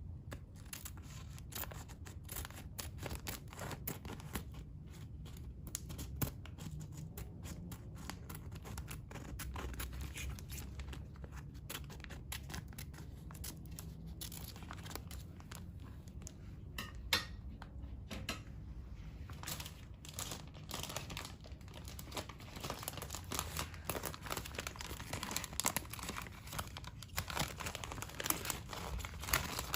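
Plastic foot peel mask packaging being handled: irregular crinkling and tearing crackles, busier and louder in the second half.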